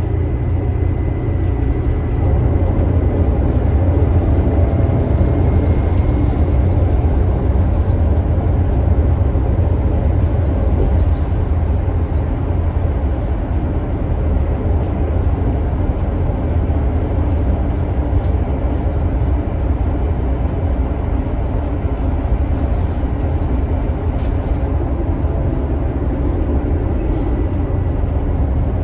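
Scania K280IB bus's DC9 five-cylinder turbo-diesel running at a steady pace: an even, deep rumble with road noise and a faint steady high whine.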